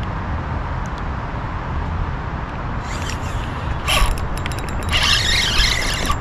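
Fishing reel being cranked and clicking while a hooked bass is fought in, over a steady low rumble. The rattling starts about halfway through and gets busier and louder near the end.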